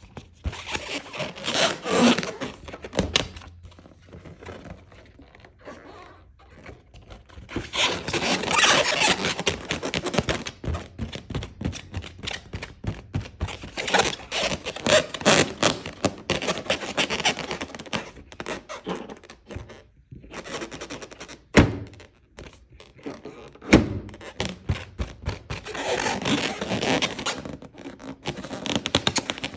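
Balloons being rubbed and squeezed in crackly stretches, with two sharp single pops about two seconds apart past the middle.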